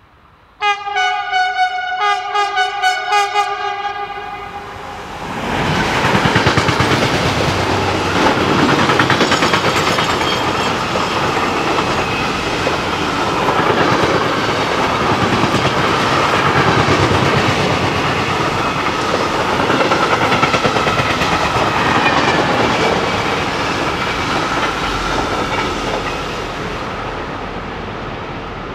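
A freight train's horn sounds for about three seconds, its loudness wavering. Then the long intermodal freight train of container wagons passes, its wheels rumbling and clattering over the rails, and the sound eases off near the end as the last wagons go by.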